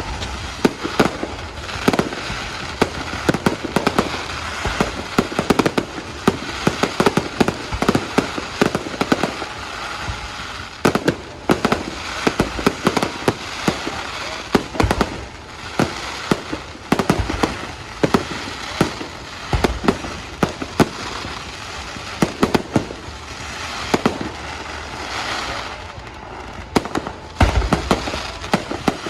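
Fireworks going off in a dense, continuous barrage of sharp bangs and crackles, with a deeper boom near the end.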